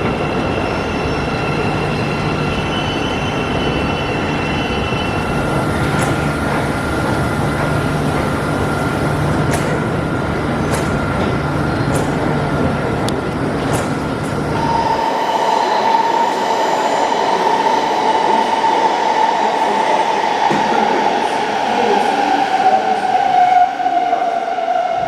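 Train running, with a steady high whine over the rumble of the ride. About halfway through, the sound changes and a strong whine slowly falls in pitch, as of an electric train slowing down.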